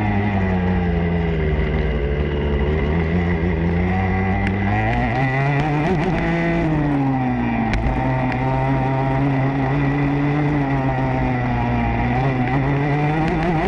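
Motocross bike engine heard from onboard, revving up and down with the throttle. Its pitch falls over the first few seconds, climbs to a peak about six seconds in, drops and holds fairly level, then rises again near the end.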